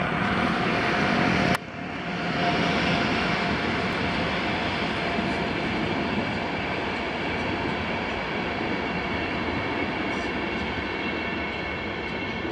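Passenger train coaches rolling past on the rails, a steady loud rumble and rush of wheels with faint high steady tones over it. The sound breaks off abruptly about a second and a half in and then carries on.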